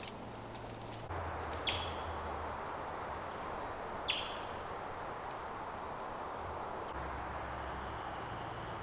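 Outdoor bush ambience: a steady hiss of background noise with two short, sharp bird calls that sweep downward in pitch, about two and a half seconds apart.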